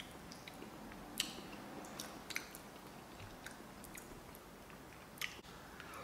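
Close-miked chewing of soft, cheesy macaroni and cheese: faint wet mouth clicks and smacks, scattered irregularly.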